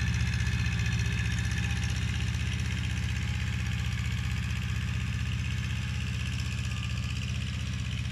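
Kubota mini tractor's diesel engine running steadily at a constant speed.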